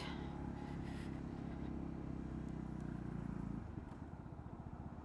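Honda CB125R's single-cylinder four-stroke engine running steadily while riding. Its note drops and quietens about three and a half seconds in.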